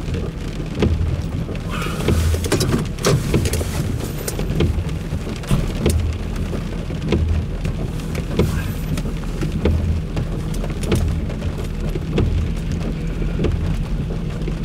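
Heavy rain pattering on a car's roof and windows, heard from inside the cabin: a dense, irregular tapping of drops over a steady low hum.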